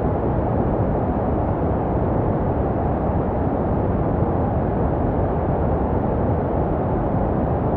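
Steady, deep white noise with the highs rolled off, made to sound like what a baby hears in the womb. It holds an even level with no changes.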